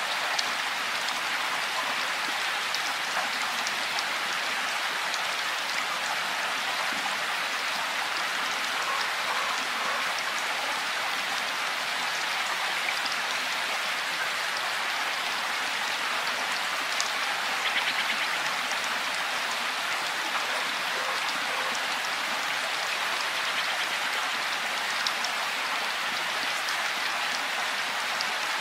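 Steady rain: an even hiss of falling drops, with a few single louder drops ticking here and there.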